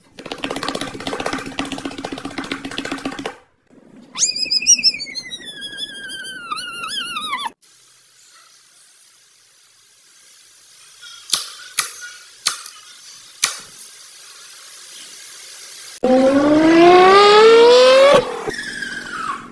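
A string of short unrelated sounds: a scratchy, rhythmic rustle, then a long high cry that wavers and falls in pitch, then a few sharp clicks over faint hiss. Near the end comes the loudest part, a Nissan Skyline R32's engine revving for about two seconds, rising in pitch.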